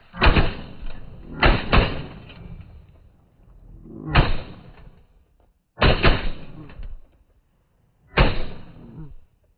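A volley of shotgun blasts from several hunters shooting at incoming geese, about six sharp shots spread irregularly over nine seconds, some in quick pairs, each fading with a short echo.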